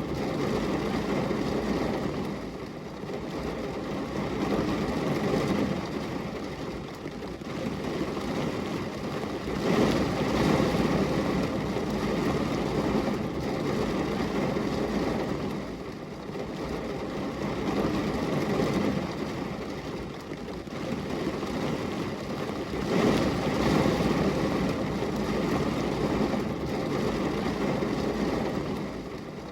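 Rain falling on a glass window: a steady hiss of noise that swells and eases every few seconds.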